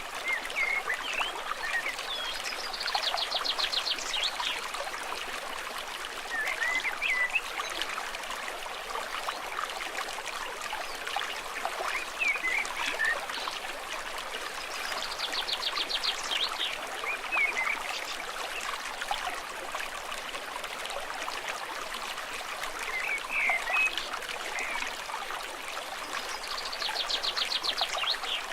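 A stream trickling and flowing steadily, with birds calling over it: short chirps every few seconds and a rapid high trill that comes three times, about twelve seconds apart.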